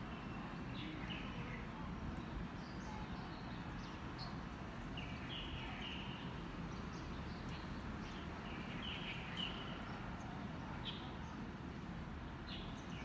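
Small birds chirping in short calls every second or two, over a steady low rumble of outdoor background noise.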